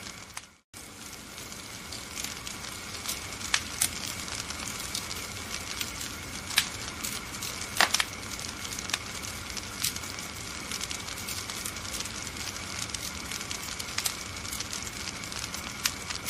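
Wood fire crackling: a steady hiss with scattered sharp pops, the loudest about eight seconds in. The sound drops out completely for a moment about half a second in.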